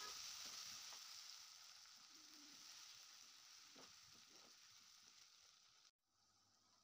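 Faint sizzling of an onion-and-spice gravy frying in oil in a nonstick kadai while a spatula stirs it. The sizzle slowly dies down and cuts off suddenly about six seconds in.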